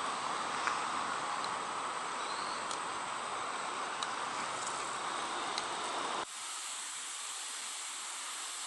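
Outdoor ambience: a steady hiss of distant city traffic and insects, with a few faint short chirps. The low rumble drops out suddenly about six seconds in.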